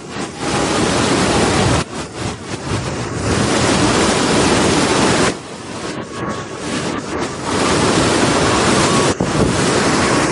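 Waterfall, a steady rush of falling water. Its loudness jumps up and drops back sharply a few times, notably a dip about five seconds in.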